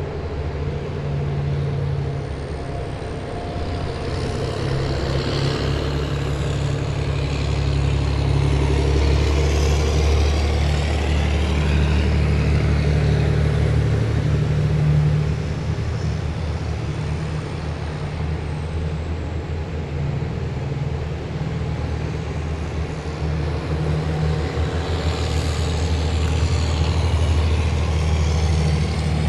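A column of heavy military vehicles driving past, their diesel engines holding a steady low drone. Waves of higher engine and tyre whine, bending in pitch, swell and fade as vehicles go by, about five seconds in, around ten to twelve seconds, and again near the end.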